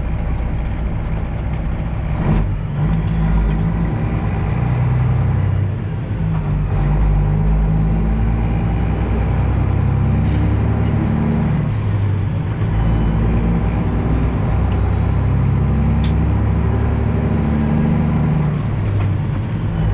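Detroit Diesel 12.7 engine of a Freightliner Classic XL semi truck running steadily under way. The engine note dips briefly about six seconds in and then picks up again.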